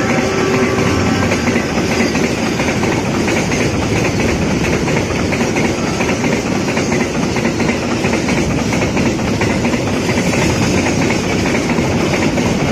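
Container freight train's flat wagons rolling past close by: a loud, steady rumble of steel wheels on the rails, with the clickety-clack of wheels over rail joints.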